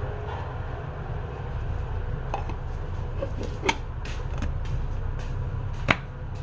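Steady low machine hum, like a running motor, with a few sharp knocks or clicks over it, the loudest two about three and a half and six seconds in.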